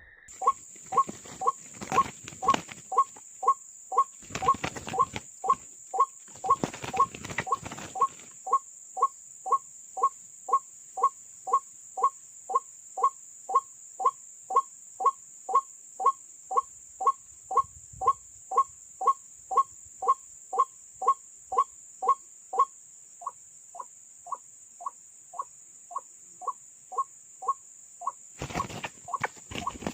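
A bird calling a single short, low note over and over, steadily about twice a second.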